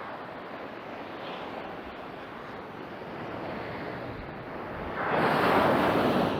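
Sea surf washing onto the beach, with wind on the microphone. A louder rush of surf comes in about five seconds in.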